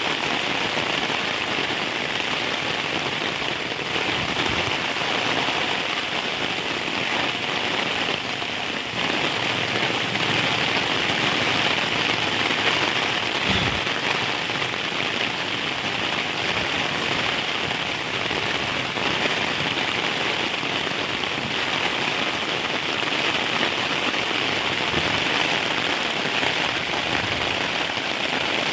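Heavy rain falling steadily, a dense even hiss of rain on surfaces, with one brief low thump about halfway through.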